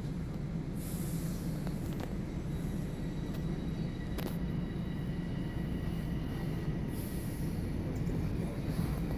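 Inside a Toronto subway Line 1 car pulling away from a station: a steady low rumble of the wheels on the track. A sharp knock comes about four seconds in, and a faint high whine from the traction motors sets in about halfway.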